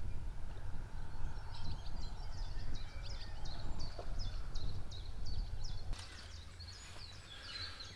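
Small birds chirping and twittering in quick short notes over a low steady rumble, the birdsong fading out near the end.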